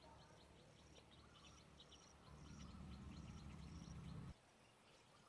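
Faint bird chirping, many short high notes in quick runs, over a low hum that swells about two seconds in and cuts off suddenly near the end.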